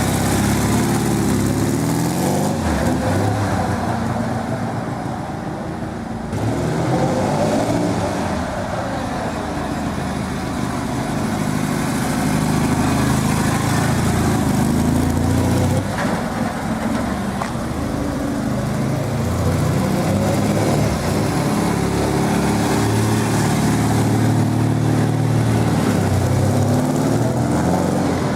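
Zundapp K800 motorcycle's flat-four boxer engine running and revving, its pitch repeatedly rising and falling. The sound changes abruptly about six seconds in and again around sixteen seconds, as separate recordings are joined.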